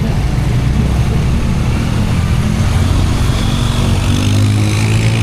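Motorcycle engine running in street traffic, with an engine note growing louder and rising slightly near the end.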